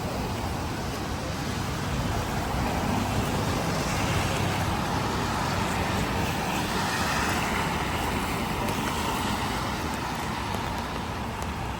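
Road traffic on a rain-wet street: a passing vehicle's tyre hiss swells and fades between about four and nine seconds in, over a steady wash of rain and wind noise.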